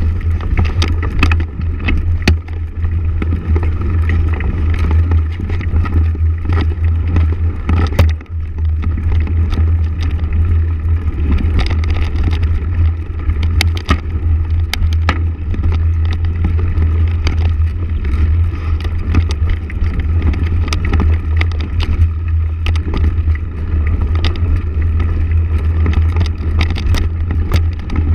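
Motorcycle running steadily on a ride, with heavy low wind rumble on the microphone and frequent short clicks and knocks.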